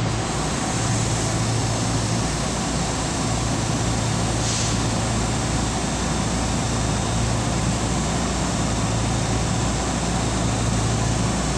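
JR West 223 series electric train running between stations, heard from inside the train: steady running noise with a constant low hum. A short hiss comes about four and a half seconds in.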